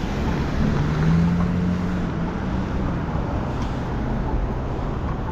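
Steady street traffic noise mixed with wind rumbling on the microphone, with one vehicle's engine tone swelling and fading over the first couple of seconds.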